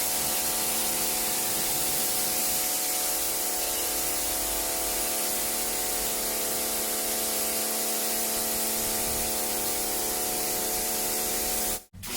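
Pressure washer spraying water in a steady hiss over the even hum of its motor and pump; it cuts off suddenly near the end.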